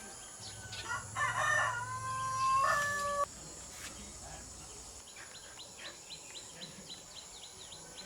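A bird's call starting about a second in: one long, loud pitched cry held for about two seconds, then cut off. It is followed by faint quick chirping from smaller birds.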